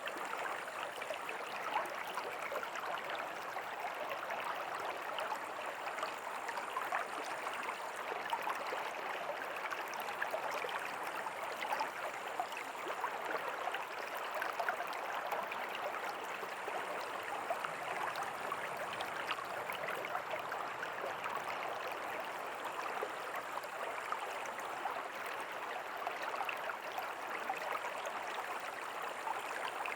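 River water flowing steadily, a constant rush dotted with many small splashes.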